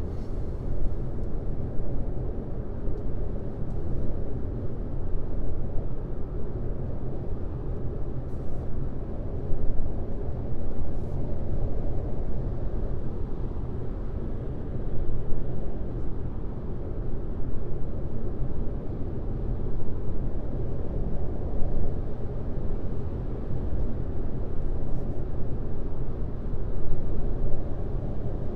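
Steady road noise of a car driving on a highway: a low, even hum of tyres and engine with no change in pace, and a few faint ticks.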